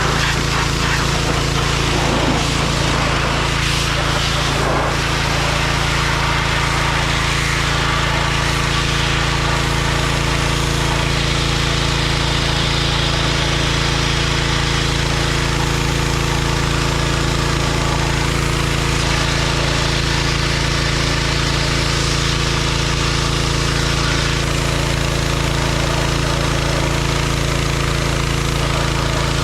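John Deere 1025R compact tractor's three-cylinder diesel engine running steadily at constant speed while it works the 260B backhoe.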